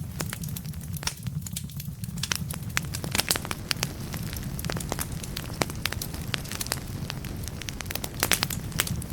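Wood fire burning in a fireplace: logs crackling with frequent, irregular sharp pops over a steady low rumble of the flames, the pops thinning out briefly between about one and two seconds in.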